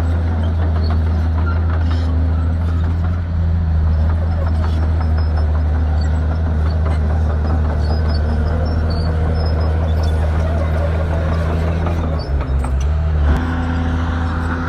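Shantui bulldozer's diesel engine running steadily under work, a deep even drone. Its note wavers and changes briefly near the end.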